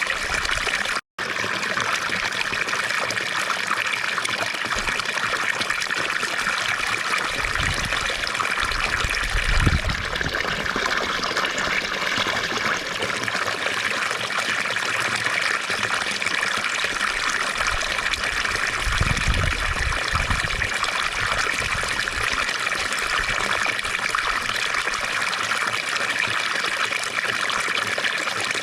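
Fountain water splashing and trickling steadily, with a momentary cut-out about a second in.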